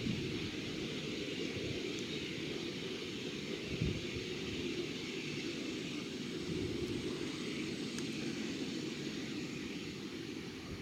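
Steady jet noise from a Boeing 747-8F, a constant rush with one soft thump about four seconds in.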